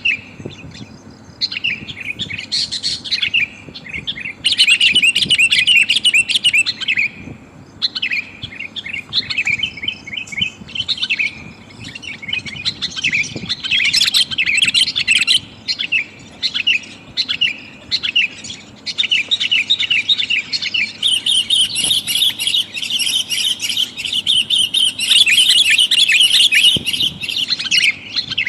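Sooty-headed bulbul calls: busy, rapid chirping in bursts with short gaps, becoming almost continuous in the second half, presented as a female calling to males as a lure.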